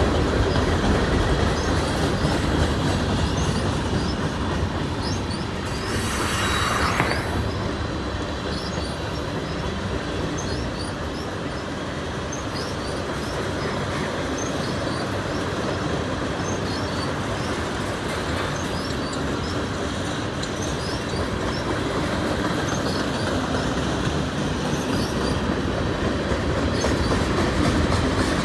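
Freight train cars rolling past, steel wheels clattering steadily over the rail joints, with a brief louder rush about six seconds in.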